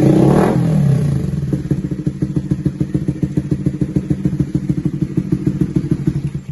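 Honda CB150R's single-cylinder engine through an Austin Racing aftermarket exhaust with its dB killer in sport mode. In the first half second a throttle blip rises and falls, then it settles into an idle with a rapid, even pulse. The sound cuts off suddenly near the end.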